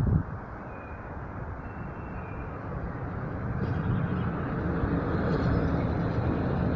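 Train approaching the station, its low rumble growing steadily louder. A brief thump right at the start.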